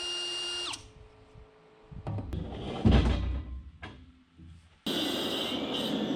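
Handling noise with a heavy thump about three seconds in, then an electric power tool starts and runs steadily for the last second or so. A short run of steady electronic-sounding tones cuts off under a second in.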